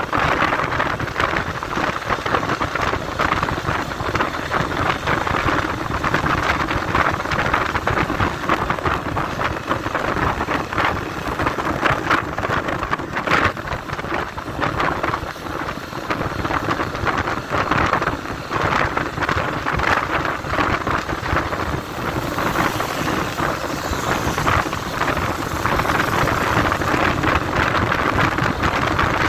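Steady rushing noise of wind and road from a motorcycle riding along, with no clear engine note standing out.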